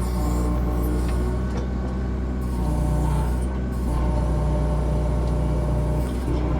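Compact excavator's diesel engine running steadily under load while its bucket pushes a stump whose roots are wedged against a dirt pile.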